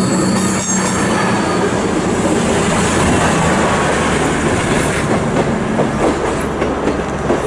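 CrossCountry Voyager diesel multiple unit moving through the platform, its engines running under a steady rolling rumble. A thin wheel squeal dies away in the first second.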